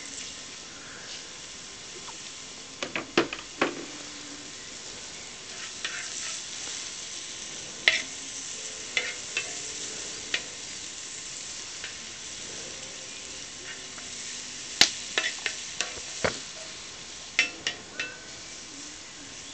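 Food sizzling as it fries in a hot Hungarian wok, with a steady high hiss. Sharp clicks and clinks come now and then as a utensil stirs and scrapes against the metal pan.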